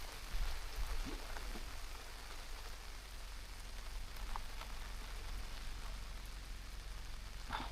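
Gentle rain falling steadily, with a few louder single drops ticking now and then.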